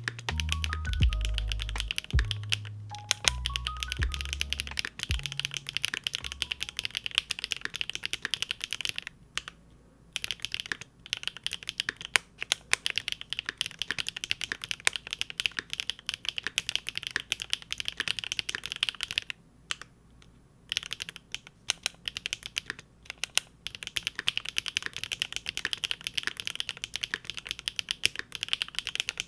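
Big Whale custom mechanical keyboard with GEON Raw Zero switches on a polycarbonate plate being typed on steadily, a dense run of rapid key clacks. The typing breaks off briefly about ten seconds in and again about twenty seconds in. Over the first few seconds, deep intro music plays under the typing and then fades out.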